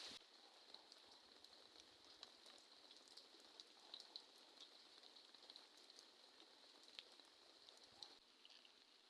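Faint light rain: scattered raindrops ticking irregularly over a soft hiss.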